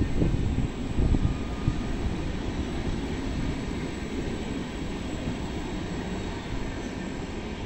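Trenord double-deck electric train pulling out of the station: a low rumble with a few heavier knocks in the first two seconds, slowly fading as the train moves away.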